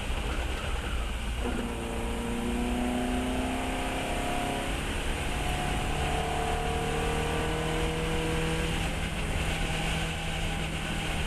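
Fiat 132's four-cylinder twin-cam engine pulling hard on track. Its note climbs steadily from about a second and a half in, drops at a gear change about five seconds in, then climbs again, over a steady rush of wind and road noise.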